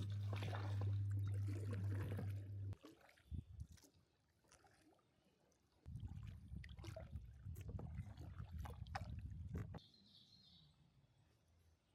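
Kayak paddling on a lake: scattered drips and small splashes of water from the paddle, with a steady low hum in the first few seconds and a low, washy stretch about six to ten seconds in.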